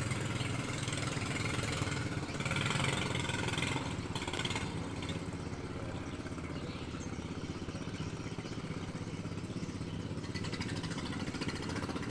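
A small engine running steadily, with a louder noisy stretch about two to four seconds in.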